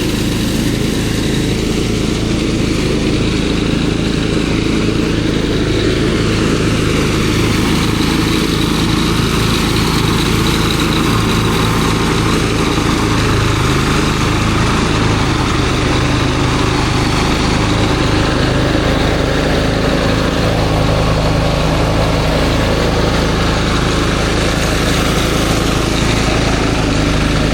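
A small engine running steadily at an even speed, with no break or change in pace.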